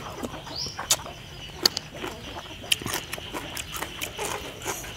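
A person chewing a mouthful of rice-noodle salad with crisp raw vegetables close to the microphone, giving a run of sharp crunches. A bird chirps once briefly, about half a second in.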